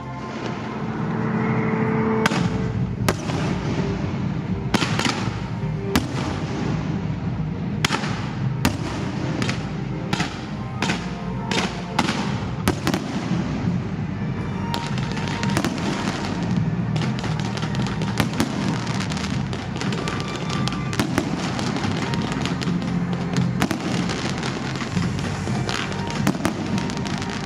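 Fireworks going off in a continuous barrage of sharp bangs and crackles, several a second, over music.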